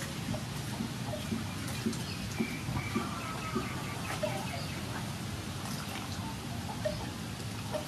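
Birds calling now and then over a steady background hiss, with faint scattered light clicks.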